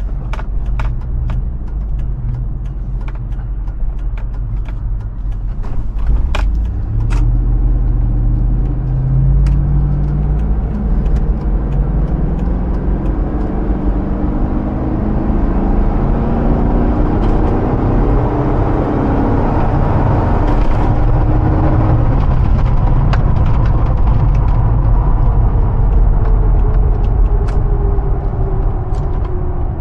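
2005 Hummer H2's 6.0-litre Vortec V8 driving: a steady low rumble, then from about seven seconds in the engine note climbs in pitch under acceleration and holds. Near the end a tone glides down, over constant road noise with scattered light clicks.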